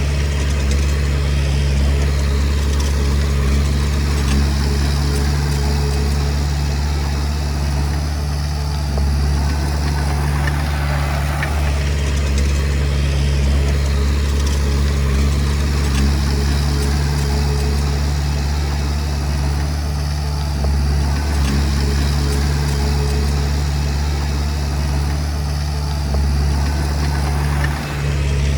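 Komatsu D20P bulldozer's diesel engine running steadily with a deep, even hum.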